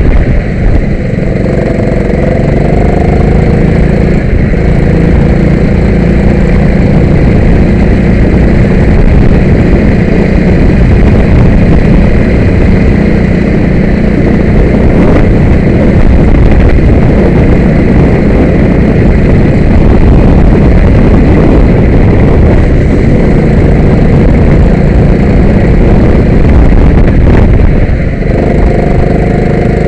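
Go-kart engine running hard and steadily, its note climbing in the first few seconds and easing off briefly near the end.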